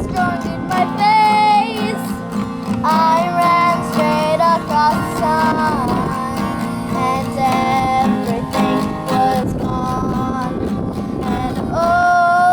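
A young girl singing a song with guitar accompaniment, holding long notes with some vibrato.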